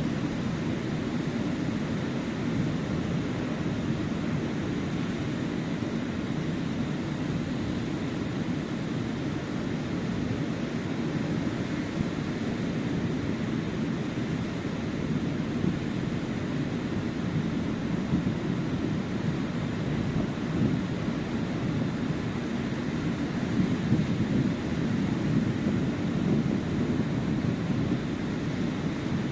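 Sea waves washing onto a sandy beach in a steady wash of noise, with wind rumbling on the microphone; the surf swells a little louder in the last few seconds.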